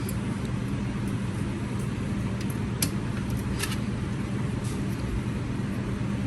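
A steady low mechanical hum with several short, sharp clicks about two to five seconds in.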